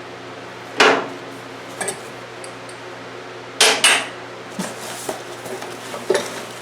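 Steel parts of a motorcycle scissor lift jack clanking and clinking as they are handled: a loud clank about a second in, a loud double clank near four seconds, and lighter knocks between and after.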